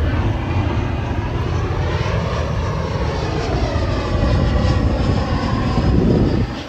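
1999 Porsche 911 Carrera's flat-six engine idling through a B&B exhaust while warming up. The pitch rises and falls gently about two seconds in, and the sound swells louder just before the end.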